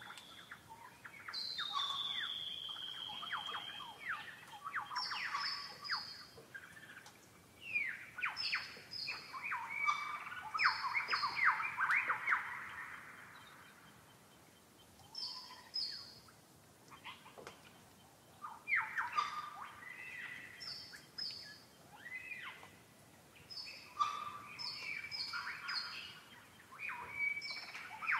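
Several birds calling: a mix of quick chirps and sweeping calls, short high notes repeated in twos and threes, and a long falling whistle about two seconds in.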